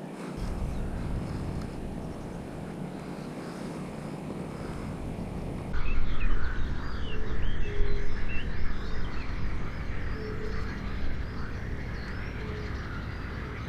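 A steady low rumble, then from about six seconds in, small birds chirping and calling in quick, repeated phrases over it, with a few short, lower, hooting notes.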